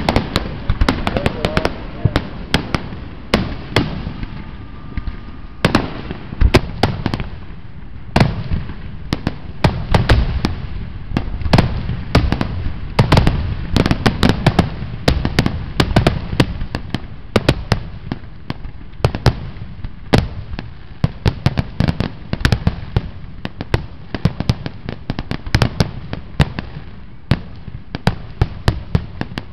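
Aerial fireworks shells bursting in a steady barrage: sharp bangs, several a second, over a continuous low rumble of overlapping booms.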